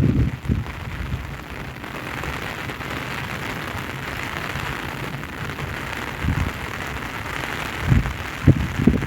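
Heavy rain falling steadily as an even hiss, with a few short low buffets of wind on the microphone, mostly near the end.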